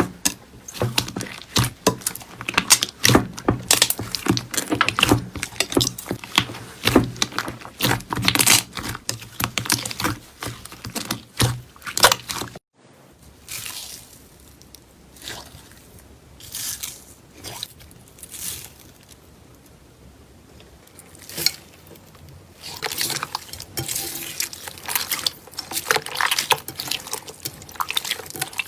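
Slime being squished and pressed by hand, full of dense crackling and popping clicks. About twelve seconds in the sound cuts off abruptly, then comes back as sparser, quieter squelches and pops.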